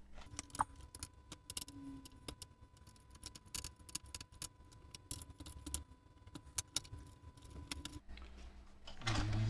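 Many small, irregular clicks and light taps of parts and metal being handled while a circuit board is fitted into a bench multimeter's case. A faint steady high tone runs under them and stops about eight seconds in.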